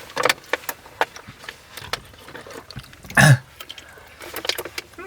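Snacking sounds: scattered small crunches and clicks, with one louder short throaty burst about three seconds in.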